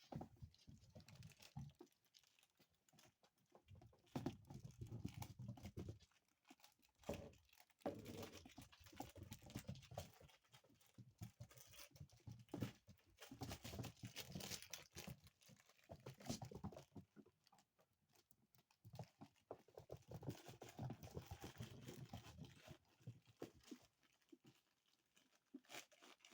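Faint scuffling and rustling of dachshund puppies playing, with irregular small patters and clicks from their paws and bodies moving.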